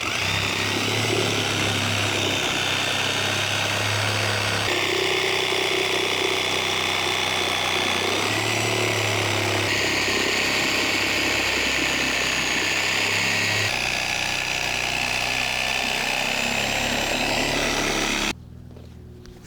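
A power tool runs steadily while cutting through the rubber of an old tractor tire. Its tone shifts abruptly a few times, and it cuts off suddenly near the end.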